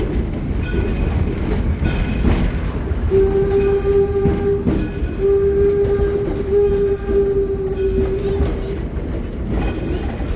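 The steam whistle of the 1897 Detroit and Lima Northern No. 7 steam locomotive sounds a steady single note in three blasts, starting about three seconds in; the last blast is the longest. Under it, the passenger cars rumble and clatter along the rails.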